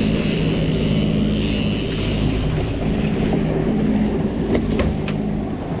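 A motorboat's engine running steadily, with wind noise on the microphone.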